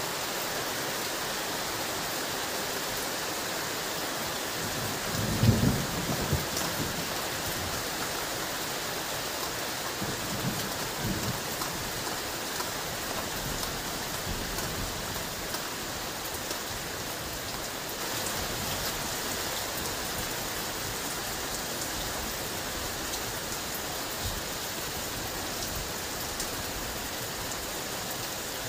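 Heavy rain falling steadily, with a loud low rumble of thunder about five seconds in and a second, softer rumble around ten seconds in.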